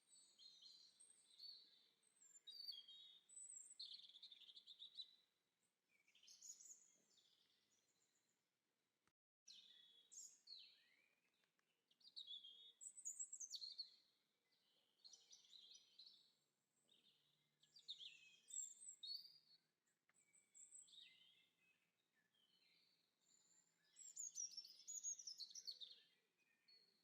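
Faint songbird singing in short, varied chirping phrases every second or two, breaking off completely for a moment about nine seconds in.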